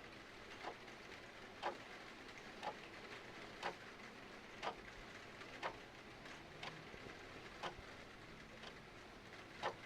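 Clock ticking steadily about once a second over a continuous hiss of falling rain.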